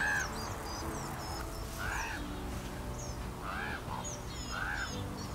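A bird outdoors giving a loud arched call over and over, about once a second, five times, while smaller birds chirp high and thin in between.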